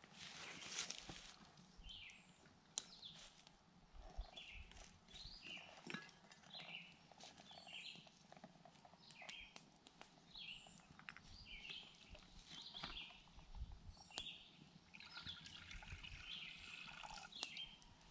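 Faint birdsong: short high chirps repeated every second or so, with a few light clicks and knocks of camp cookware being handled.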